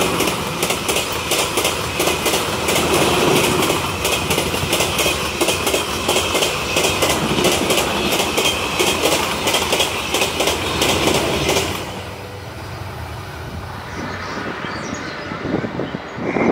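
Passenger coaches running past at about 120 km/h: a steady rush of wheels on rail with a rapid run of clicks from the wheels crossing rail joints. The noise drops sharply about twelve seconds in, leaving a fainter rumble.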